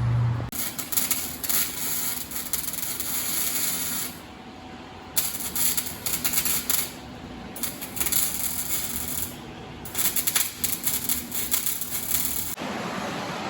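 Tool work in four bursts of rapid clicking and scraping, each one to three seconds long, with short quieter gaps between them.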